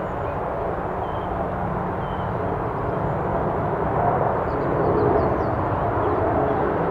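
Airbus A300-600R freighter's jet engines running at takeoff power, a steady rumbling noise slowly growing louder.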